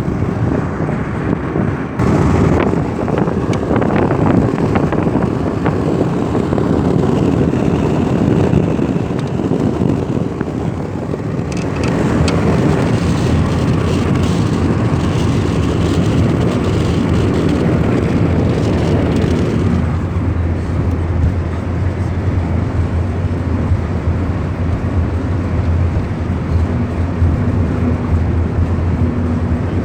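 Lada Kalina 2 wagon driving at speed: steady engine and road noise. About twenty seconds in it settles into a smoother low engine hum.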